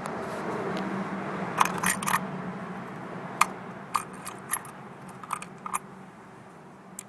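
Sharp metallic clicks, about ten of them: a quick cluster about two seconds in, then single clicks spread out, one near the end. Under them is a faint steady hum.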